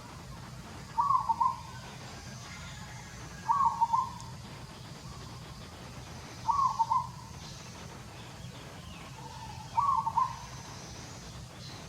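A bird calling: a short call of a few quick notes, repeated four times about every three seconds.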